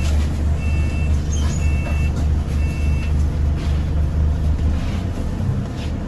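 Bus engine running with a steady low drone while a two-pitch electronic beep sounds about once a second, four or five times, stopping about three seconds in: typical of a bus's door warning beeps.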